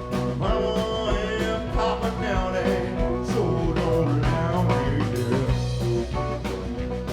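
Live blues-rock band playing a passage without lyrics: drums keep a steady beat under bass and electric guitar, with a lead line that bends in pitch through the middle.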